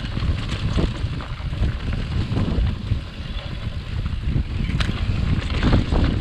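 Wind buffeting the microphone of a mountain bike on a fast dirt-trail descent, with a steady low rumble from the tyres and irregular knocks and rattles as the bike runs over bumps.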